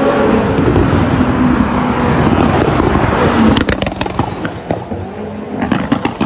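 Koenigsegg Jesko's twin-turbo V8 running at high revs under hard acceleration. About three and a half seconds in the engine lifts off, and the exhaust crackles and pops on the overrun, with another run of pops near the end.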